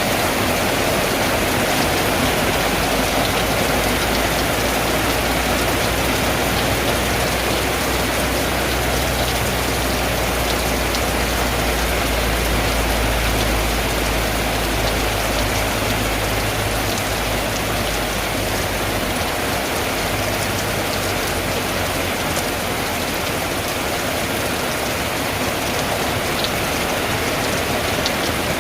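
Steady heavy rain drumming on a tin roof, a dense continuous patter. A low rumble runs underneath for the first two-thirds and then fades.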